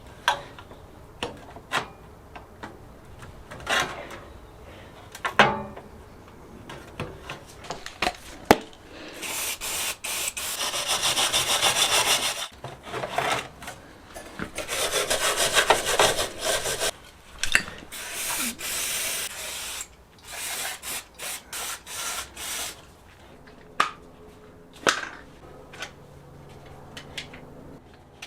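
Hand abrading work on a part: scattered clicks and knocks from tools being handled, two long stretches of steady rasping rubbing, then a run of short, separate rubbing strokes.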